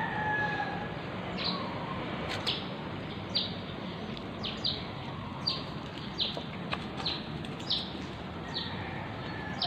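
A bird chirping over and over, short high chirps about once a second, over steady outdoor background noise. A few faint sharp clicks come in between, which fit a cat crunching dry kibble.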